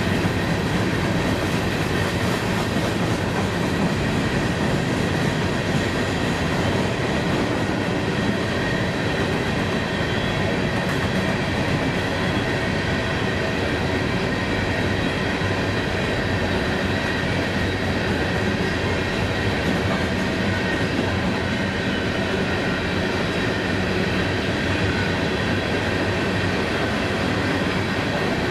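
Empty coal cars of a freight train rolling past: a steady rumble of steel wheels on rail, with a faint, steady high-pitched ringing on top.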